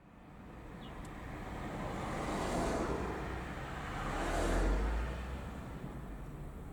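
Two fire trucks driving past one after the other, tyre and engine noise swelling and fading with each; the second is louder, with a deep engine rumble.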